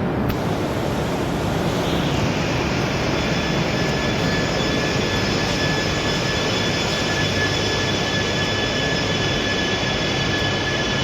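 Shinkansen train noise at a station platform: a steady loud rush, with high whining tones that set in about two seconds in and hold steady.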